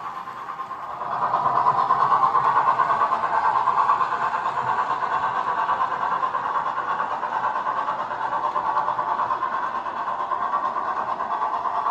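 Dapol 14xx O gauge model tank locomotive, converted to 3-rail with a Blunami decoder, running along the track with a steady mechanical sound that grows louder about a second in.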